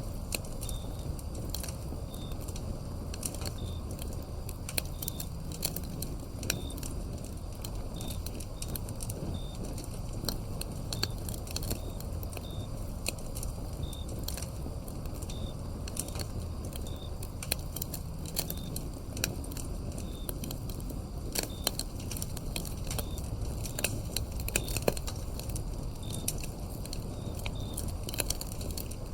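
Wood fire crackling with frequent sharp pops over a low rumble of the flames, and a cricket chirping in short, regular calls about every second and a half.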